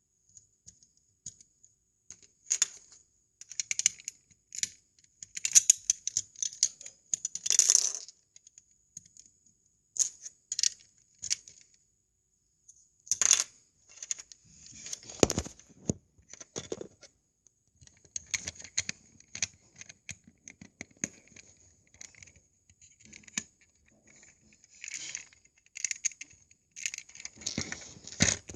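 Plastic LEGO bricks clicking and clattering as small pieces are handled and pressed together, in irregular bursts with short pauses between them.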